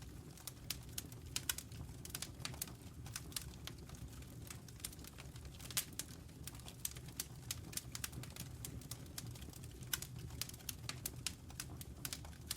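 Wood fire burning in a fireplace: irregular sharp crackles and pops over a low, steady rumble, with a couple of louder pops about six and ten seconds in.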